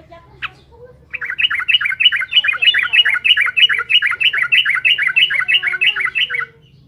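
Sooty-headed bulbul (trucukan) singing a long, rapid run of repeated chattering notes, about five or six a second, starting about a second in after a single short call and stopping shortly before the end.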